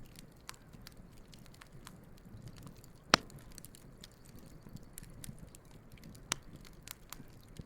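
Wood campfire burning, with steady light crackling over a low soft rumble and two sharp louder pops, about three seconds in and again about six seconds in.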